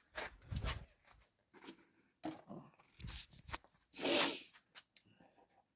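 Packaging being handled: a few short rustles and knocks, and about four seconds in a louder tearing or rustling sound lasting about half a second.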